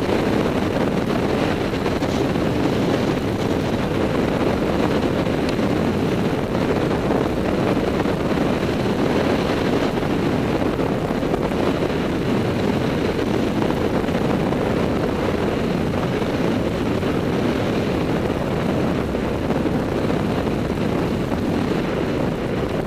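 Steady rushing wind on the microphone of a skier moving downhill on snow.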